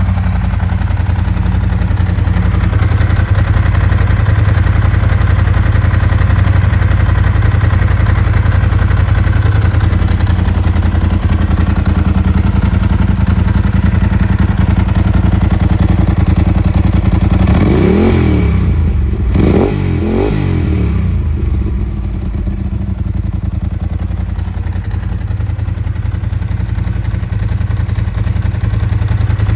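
Ducati 748's 90-degree V-twin engine idling steadily, then blipped three times in quick succession about two-thirds of the way through, each rev rising and falling before it settles back to idle.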